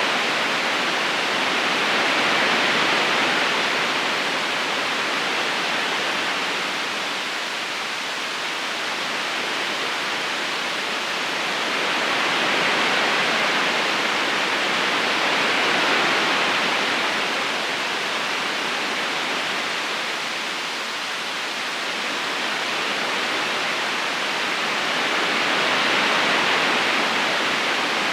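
Gentle river current rushing steadily over stones, a constant water hiss that slowly swells and eases about every ten seconds.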